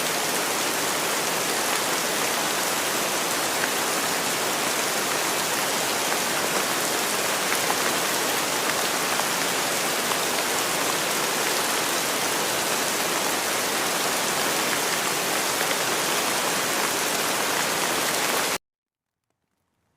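Steady, heavy-sounding rain falling, a dense even patter. It cuts off abruptly near the end into silence.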